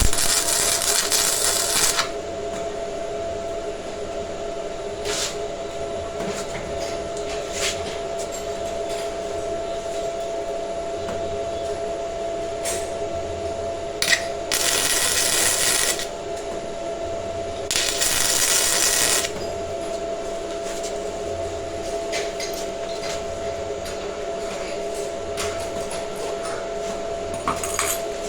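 Metalwork with power tools: a steady machine hum runs throughout, with three short bursts of harsh hissing noise about two seconds long and scattered clicks and knocks of metal parts.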